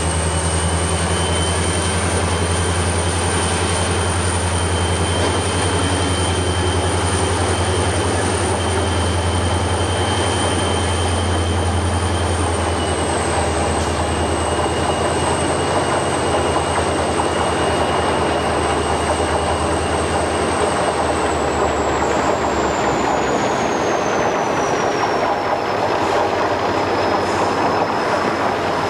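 A train running by with a low rumble and a steady high-pitched tone over it; the tone drops a little in pitch about halfway, then slides lower near the end as the rumble fades away.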